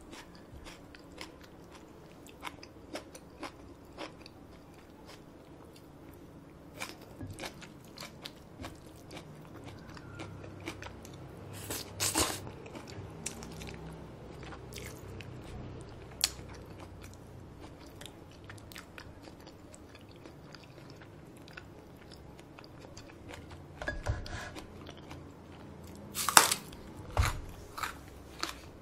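Close-miked chewing and biting while eating Paldo bibimmyeon cold spicy noodles, with small wet clicks and smacks throughout. A few louder mouth sounds come about halfway through and again near the end.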